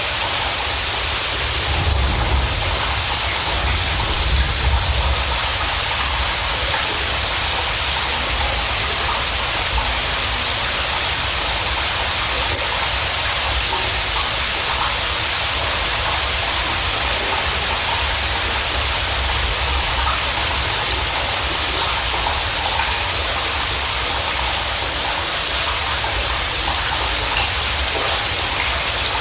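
Steady rain: an even hiss of falling drops, with a low rumble that swells briefly a few seconds in.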